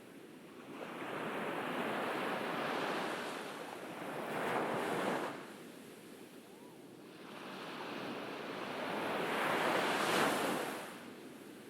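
Gentle ocean waves breaking on a beach: two waves in turn, each building to a wash that peaks and falls away quickly, with a quieter pause between them.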